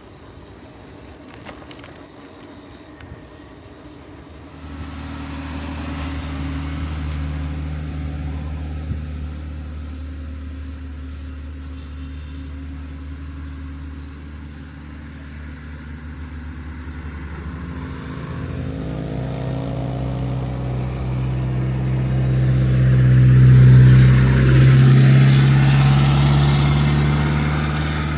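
Motor vehicle engine running with a steady low hum. It starts suddenly a few seconds in, with a thin high whine over it through the first half. It grows louder in the last third, loudest a few seconds before the end.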